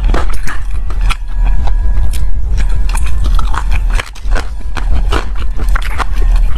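Close-miked chewing and biting of chicken feet: a dense run of quick mouth clicks and crackles, with a couple of brief pauses, over a low steady hum.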